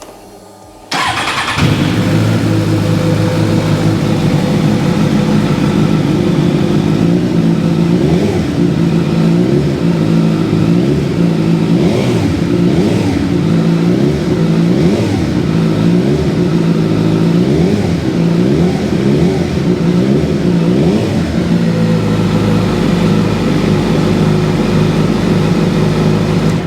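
2014 Suzuki GSX-R1000's inline-four engine, fitted with an aftermarket Pipeworks exhaust, starting about a second in and running. Through the middle it is given repeated quick throttle blips, then it settles to a steady idle near the end.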